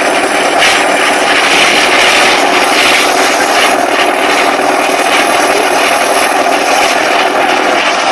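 A loud engine running steadily under load, a dense, even mechanical drone.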